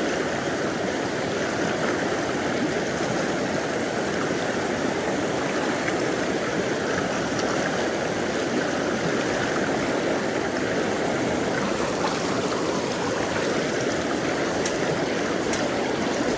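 Steady rushing of a river's flowing water, an even noise with no change in level. A few faint high ticks come near the end.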